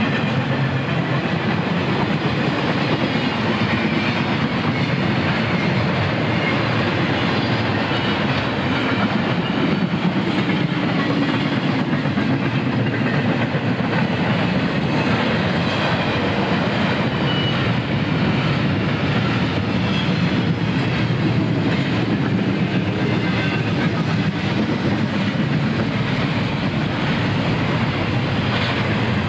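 Double-stack intermodal container train rolling past, a steady rumble of steel wheels on rail.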